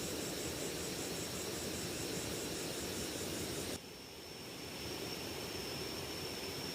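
Steady outdoor rushing noise with a high, thin insect-like trill over it. About four seconds in the sound cuts abruptly and comes back slightly changed.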